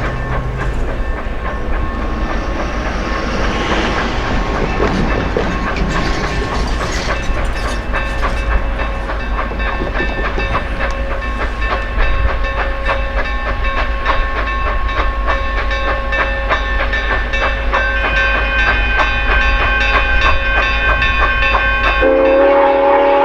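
Georgia Northern 2-8-2 steam locomotive No. 105 running, a rapid even clicking over a steady low rumble. Near the end its whistle starts blowing, a loud chord of several tones.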